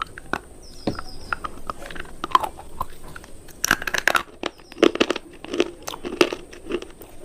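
Close-up crunching of hard, brittle cubes being bitten and chewed: irregular sharp crunches, growing denser and louder about halfway through.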